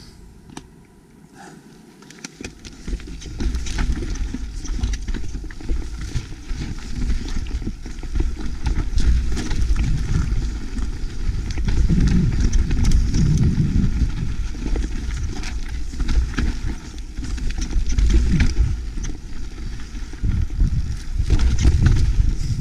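Mountain bike riding down a rocky trail, starting about two seconds in: tyres rumbling over rock and the bike rattling and knocking, with wind buffeting the microphone.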